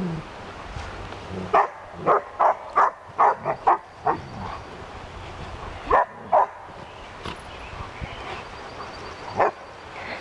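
Dog barking in play: a quick run of about seven barks, then two more about six seconds in and one near the end.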